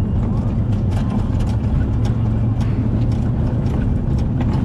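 Steady low rumble of a moving vehicle's engine and road noise, with light irregular ticks and rattles over it.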